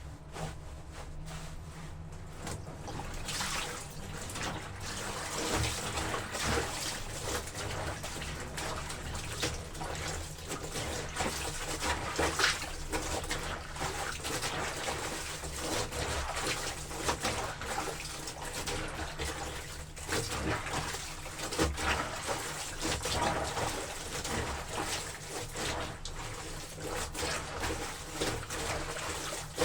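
Water sloshing and splashing unevenly as wet laundry is worked in a tub of water.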